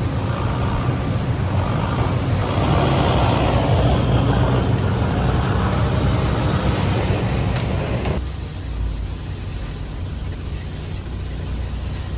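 Semi-truck engine running with road noise while driving, a steady low drone. About eight seconds in, the sound drops abruptly to a quieter, duller drone.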